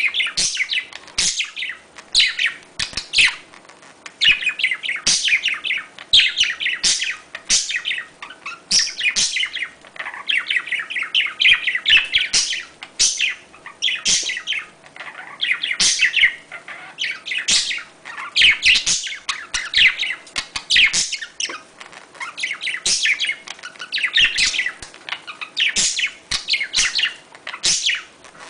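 Budgerigars chattering and warbling continuously: rapid chirps and twittering calls in quick succession, the kind of budgie chatter played to stimulate breeding.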